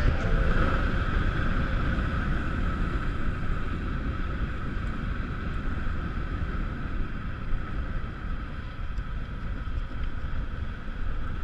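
Wind buffeting a GoPro's microphone on a moving bicycle, a steady rumbling rush that slowly fades.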